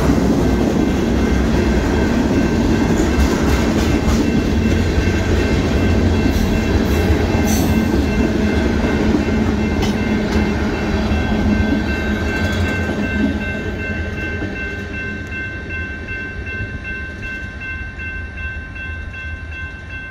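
Long Union Pacific mixed freight train of tank cars rolling past at a grade crossing: a heavy rumble of steel wheels on rail with occasional clacks, fading over the second half as the last cars pass. Steady high ringing from the flashing crossing signals' bells stands out as the train noise dies away.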